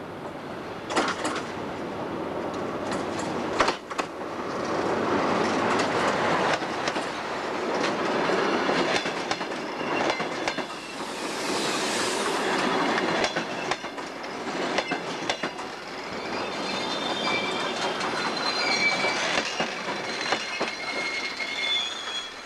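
DR1A diesel multiple unit passing close by, its wheels clicking over the rail joints in a long irregular run of clacks. High, steady wheel squeal comes in during the last third as the carriages roll past.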